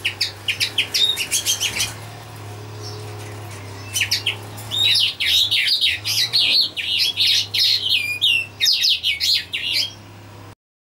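Small birds chirping and twittering in quick runs of short, high notes, sparser about two seconds in and busier from about four seconds, over a steady low hum. The sound cuts off abruptly near the end.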